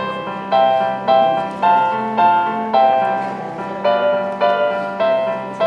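Background music: a simple melody played on piano or keyboard, one note at a time, about two notes a second, over a steady low held tone.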